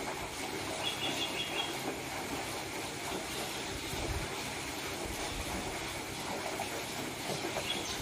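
A bird gives a quick run of about four short, high chirps about a second in, and one more chirp near the end, over a steady background hiss.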